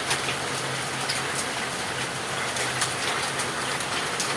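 Heavy rain falling with small hailstones, a steady hiss broken by many sharp ticks of hailstones striking hard surfaces.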